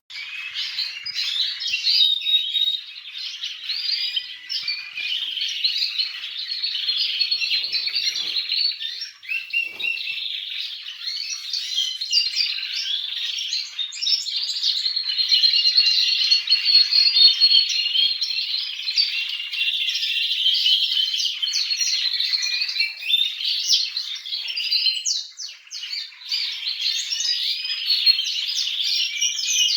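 Caged canaries singing and chirping in a dense, continuous warble of high notes, with brief lulls about nine seconds in and again around twenty-five seconds.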